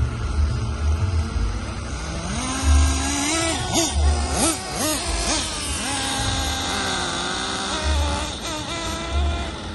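Small nitro RC car engine revving in quick blips, its pitch swinging up and down several times in the middle and once more near the end.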